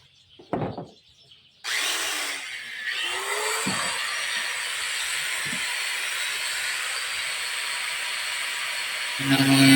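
A knock, then a steady hiss that starts suddenly about one and a half seconds in and keeps on, with a couple of light knocks under it. Music comes in near the end.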